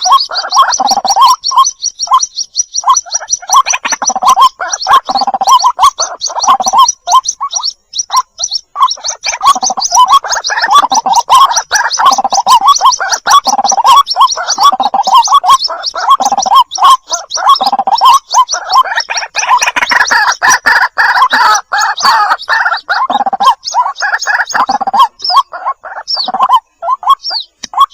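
White-breasted waterhen lure recording of chicks calling for the parent. It is a dense run of rapid, high cheeping over lower repeated calls and soft low pulses about once a second, loud and without pause.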